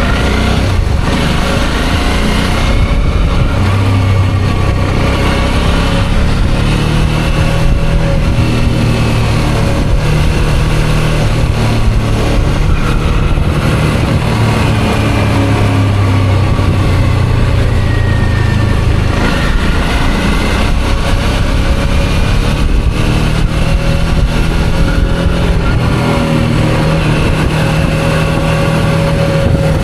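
Suzuki V-Strom 650's V-twin engine running under way, its pitch rising and falling as the bike speeds up and slows, over a constant rush of wind and road noise.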